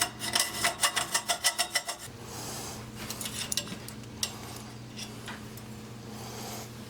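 Metal clicking and clinking from hand tools and small metal parts being handled: a quick run of sharp clicks in the first two seconds, then scattered clinks, over a steady low hum.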